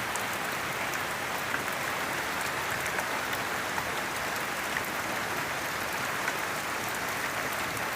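Heavy rain falling steadily, an even hiss of rain with many small sharp drop ticks scattered through it.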